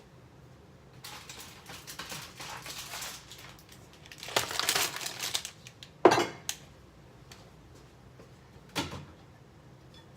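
Food packages and containers handled while emptying a refrigerator: rustling and crinkling of packaging, then a sharp knock about six seconds in and a lighter one near the end as items are set down.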